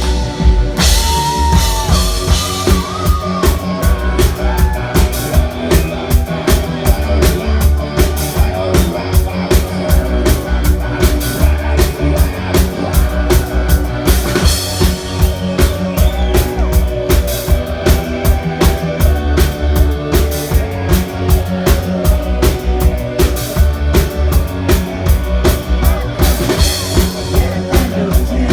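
Live rock band playing: drum kit on a steady, driving beat with bass and guitar.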